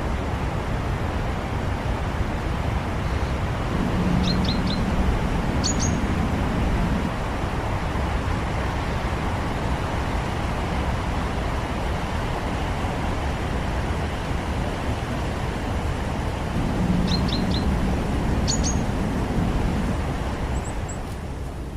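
Tits calling: a burst of three quick high chirps followed by a higher double note about four seconds in, the same pattern again about seventeen seconds in, and a few faint notes near the end. A loud, steady background noise haze, like traffic, runs under them.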